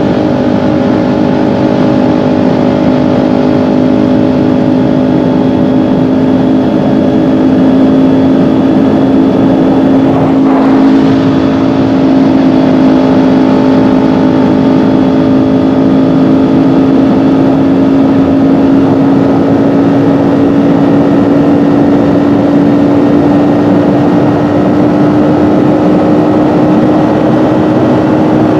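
Kawasaki Ninja 400's parallel-twin engine pulling steadily at cruise with wind rushing past, its note rising slowly as the revs creep up. A brief burst of noise cuts across it a little over ten seconds in.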